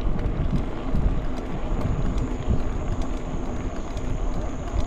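Wind buffeting the microphone with the rumble and rattle of a mountain bike being ridden on a rough track, scattered with small clicks; a faint steady high whine joins about two seconds in.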